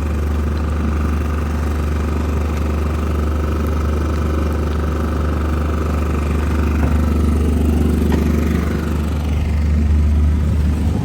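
Boat motor of a small houseboat running steadily under way, with a constant low hum that gets a little louder near the end.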